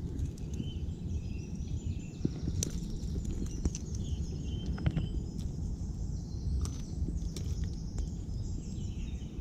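Small birds singing in quick, high chirping phrases over a steady low rumble, with a few sharp clicks scattered through.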